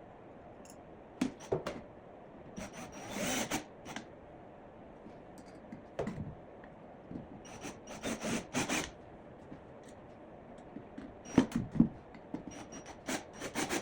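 Hand work on a wooden platform: short scrapes, rubs and knocks come and go irregularly, in clusters about three seconds in, around eight seconds in and near the end, with no power tool running.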